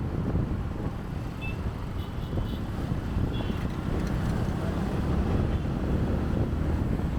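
Motorbike riding through city traffic, heard from a chest-mounted camera: steady wind rumble on the microphone over engine and road noise, with a few faint, short high tones partway through.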